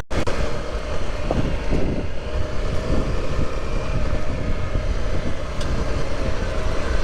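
Motorcycle engine running steadily while riding, with heavy wind noise buffeting the rider's microphone. The sound drops out for an instant right at the start.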